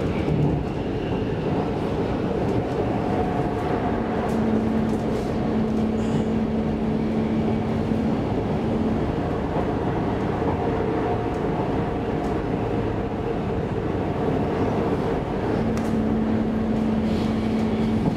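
Inside the passenger car of an X10 electric commuter train running at speed: a steady rumble of wheels on rail. A low hum comes in twice for a few seconds each, over a few faint clicks.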